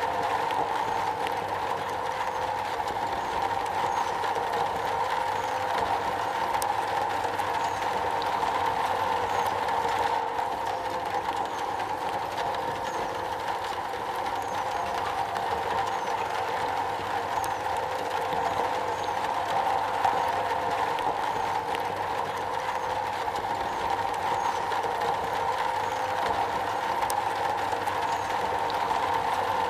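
Steady rain falling on a metal roof: a dense, even patter that holds without a break.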